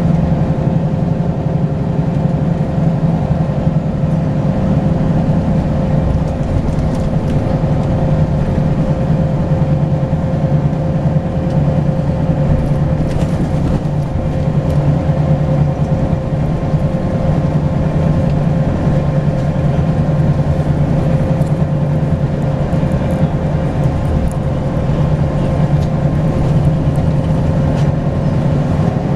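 Volvo B10BLE single-deck bus under way, its diesel engine running steadily with slight changes in pitch, and a steady whine over it.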